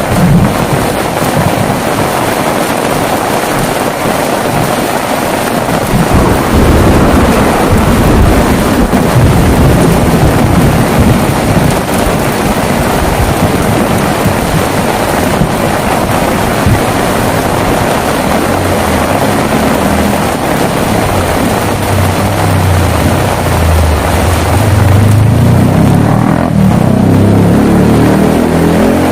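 Heavy rain falling steadily, with thunder rumbling low, briefly about a third of the way in and again through the second half.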